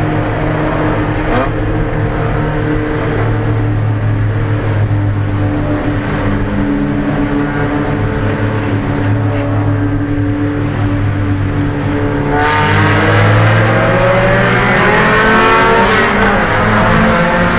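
1995 Mazda Miata's 1.8-litre four-cylinder engine running at a steady low speed, then about twelve seconds in the revs climb as the car accelerates.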